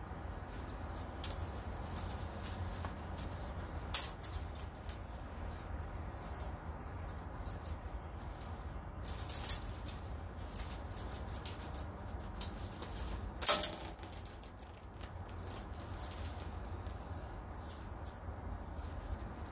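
Steel bandsaw resaw blade being handled and fitted onto the saw: scattered light clicks and rustling, with a few sharper knocks. A steady low rumble runs underneath.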